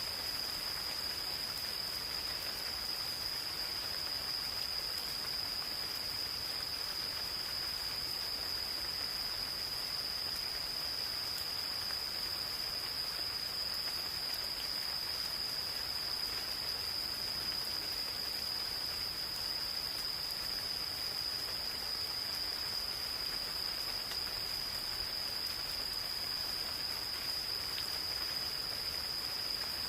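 Gentle rain falling in a forest, a steady patter with scattered single drops, while insects sing one unbroken, high-pitched trill without pause.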